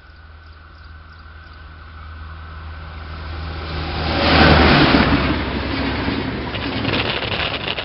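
ADIF track-geometry inspection train approaching and passing at speed. Its rushing noise builds to a peak about halfway through, then stays loud, with a run of rapid clicks from the wheels on the rails near the end.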